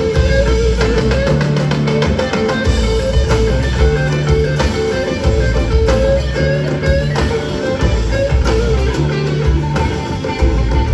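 Live band playing an instrumental passage: a guitar lead holding and bending notes over a bass figure that repeats every two to three seconds.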